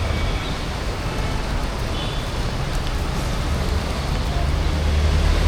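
Street traffic on a wet road: a steady hiss over a low engine rumble that grows louder near the end as a vehicle draws near.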